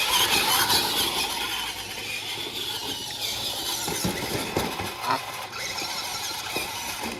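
RC monster truck being driven hard, its motor whining and its tyres scrabbling and squealing. Loudest for the first two seconds, then running on somewhat lower.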